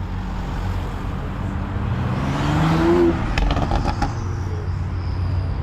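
Car engines running, with one rising in pitch as it accelerates past, loudest about three seconds in. A quick run of sharp crackles follows.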